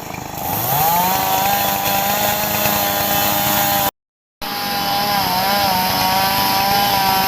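Two-stroke chainsaw revving up and running at high speed, likely cutting through fallen trees; it cuts out for a moment near the middle and then runs on with a slight wavering in pitch.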